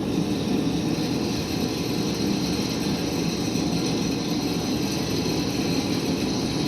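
A shop machine running steadily, a constant mechanical drone with no breaks or strikes.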